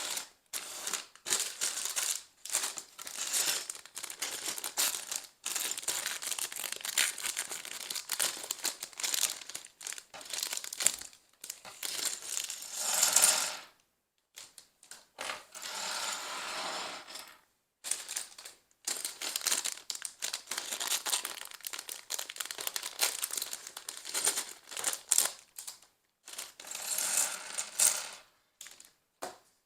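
Small plastic LEGO pieces clattering and rattling in stretches of a few seconds, with brief pauses between.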